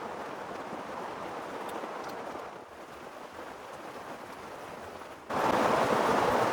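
Heavy rain falling as a steady hiss, which jumps abruptly louder about five seconds in.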